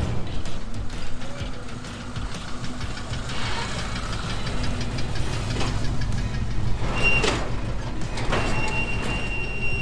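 Vehicle on the road towing a loaded trailer: steady low engine and road rumble, with a couple of sharp knocks in the second half and a thin high tone entering near the end.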